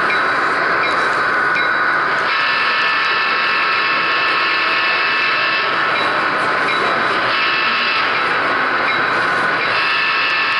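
Model railroad train running along the layout: a steady whine from its small electric motor and gearing over wheel-on-rail noise, with a few faint ticks.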